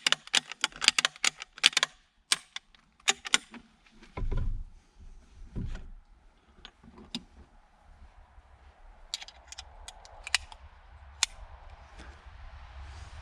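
Quick metallic clicks and rattles from a 6.5×55 Swedish Mauser bolt-action rifle being worked by hand, most likely while a jammed round is cleared. Two dull knocks come about four and six seconds in, then scattered single clicks.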